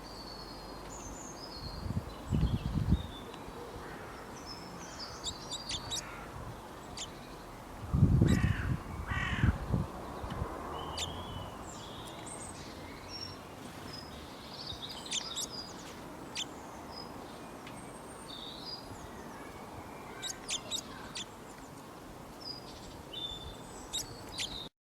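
Several wild birds chirping and calling over a steady outdoor background hiss, with short high chirps throughout and two louder, lower outbursts, about two seconds in and again around eight to ten seconds.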